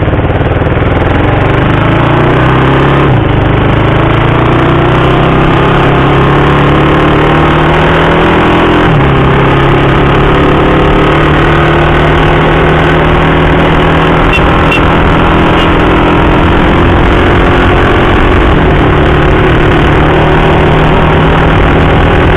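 KTM RC 390 single-cylinder motorcycle engine under way, with a constant rush of wind. Its pitch climbs, drops at upshifts about three seconds in and again around nine seconds, then holds steady while cruising.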